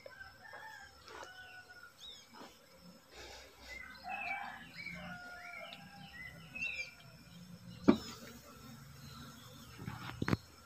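Birds calling with short chirps, with two sharp knocks, about eight and ten seconds in.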